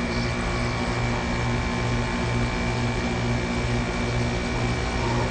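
Gold Star window air conditioner running with its compressor on: a steady mechanical hum with a slow, even throb about twice a second and a faint high whine over it. The compressor sounds healthy.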